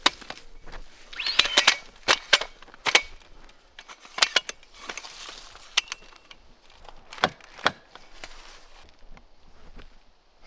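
A string of sharp, irregular clicks and knocks, about a dozen, with some rustling between them about a second in.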